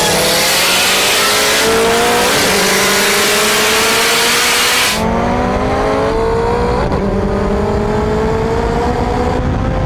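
Turbocharged Honda K20A2 four-cylinder pulling hard under wide-open throttle, its pitch climbing steadily and dropping back at each upshift, twice. About halfway the sound changes abruptly as the loud rushing hiss drops out.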